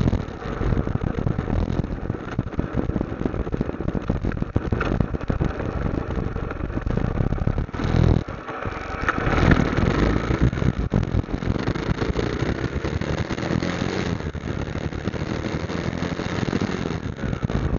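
Motorcycle engine running on the road, with a brief drop about eight seconds in and a louder surge right after.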